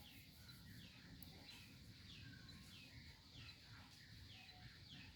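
A bird chirping faintly over and over, about twice a second, each chirp short and falling in pitch, over a low background rumble.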